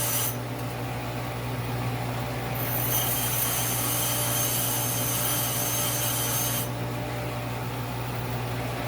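Bench grinder running steadily while a lathe tool bit is pressed against the wheel to grind off its nose radius. The grinding hiss sets in loud a few seconds in and drops back about two-thirds of the way through.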